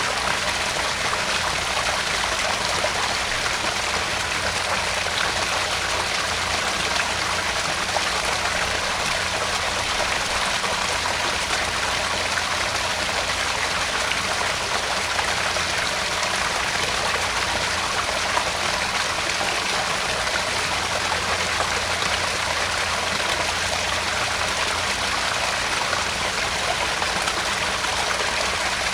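Small garden-pond waterfall: water spilling and splashing steadily into the pond, a constant even rush and trickle.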